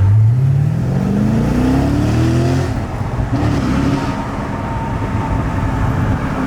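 Corvette Z06's V8 accelerating hard, its revs climbing for about two and a half seconds before an upshift drops them, then pulling on at a steadier pitch.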